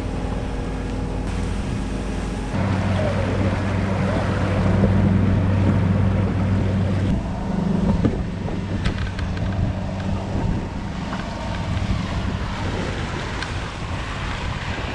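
A sailboat's inboard engine runs steadily under way as a low drone, with water rushing along the hull and wind buffeting the microphone. The drone changes and grows stronger a couple of seconds in.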